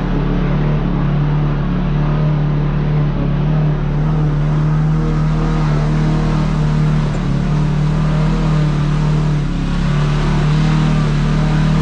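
Kawasaki KRX side-by-side's parallel-twin engine running steadily while under way on the trail, its pitch holding even throughout.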